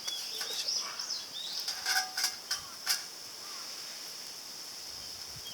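Outdoor ambience: a steady high-pitched insect hum with a few short bird chirps, and several sharp clicks or crackles in the first three seconds.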